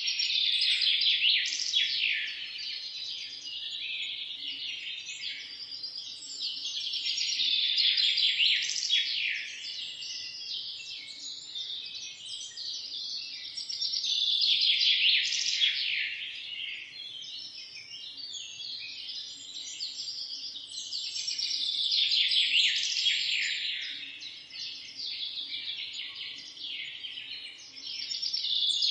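Many birds chirping and singing at once in a dense chorus, swelling and fading in waves about every seven seconds.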